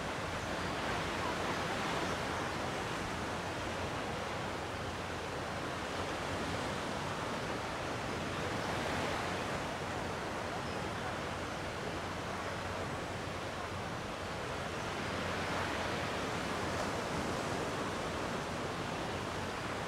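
Gentle sea waves washing on the shore: a steady wash of surf that swells softly every several seconds.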